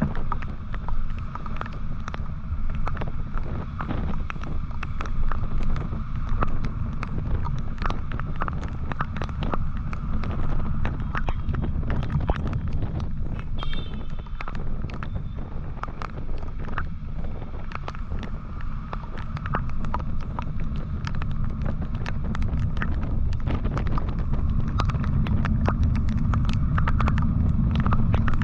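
Motorcycle on the move: a steady low rumble of engine and wind on the microphone, dotted with many sharp ticks and taps, getting louder over the last few seconds.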